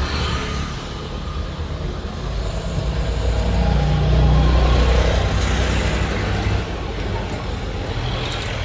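Motor vehicle engine rumbling, growing louder in the middle and then easing off.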